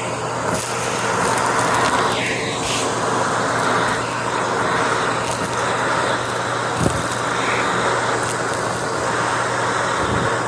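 Vacuum cleaner running steadily, with a few sharp clicks and crackles of crunchy debris being sucked up.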